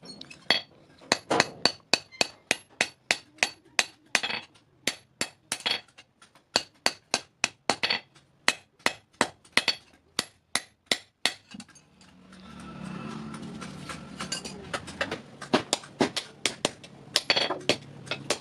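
Blacksmith's hammer striking hot steel on an anvil while forging a hasua blade, sharp ringing blows at about two to three a second. About two-thirds of the way through, a steady noise with a low hum joins beneath the blows.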